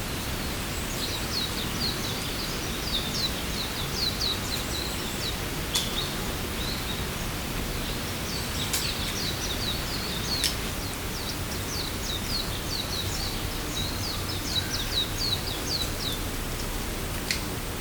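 A small songbird sings two long runs of rapid, high, falling notes over a steady rushing background noise, with a few sharp ticks in between.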